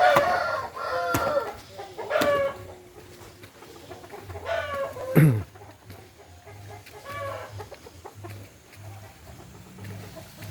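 Chickens calling: a series of loud clucks and squawks, about five calls in the first seven seconds, then quieter.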